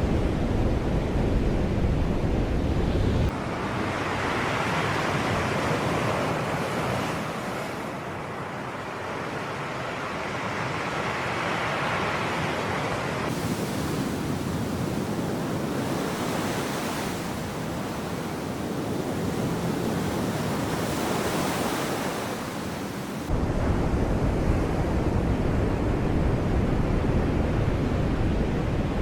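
Sea waves washing in, a steady hiss of surf that swells and eases. Wind buffets the microphone with a heavy low rumble that cuts out abruptly about three seconds in and returns just as abruptly near the end.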